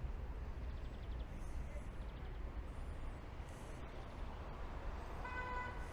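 Steady rain with a low city rumble. Near the end a short, steady pitched tone sounds for under a second.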